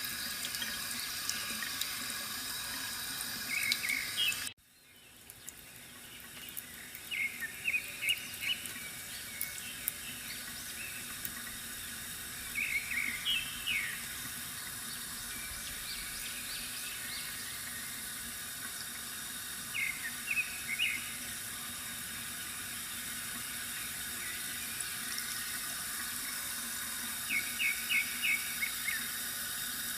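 Water trickling steadily from a bamboo water fountain, with small birds chirping in short bursts five or six times. About four and a half seconds in, the sound cuts out abruptly and fades back in.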